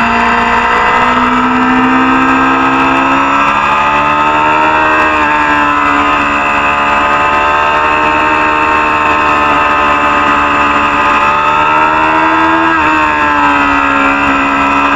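Supersport 300 racing motorcycle engine running loud and steady under load. Its pitch slowly climbs and eases, then drops sharply about thirteen seconds in before climbing again.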